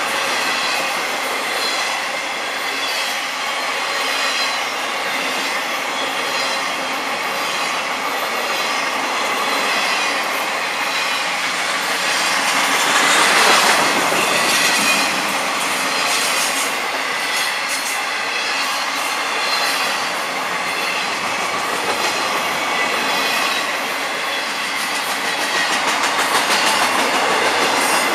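Freight cars of a long intermodal train rolling past: a steady rumble of steel wheels on rail with a regular clickety-clack over the rail joints, swelling louder about halfway through.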